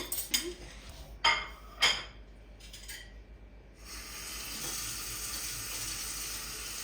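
Dishes clink a few times. About four seconds in, a kitchen tap is turned on and water runs steadily into the sink.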